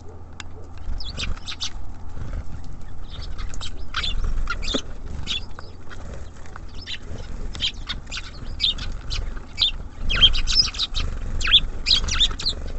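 Small songbirds at a feeder giving many short, high chirps and twitters, busiest near the end, over a steady low rumble.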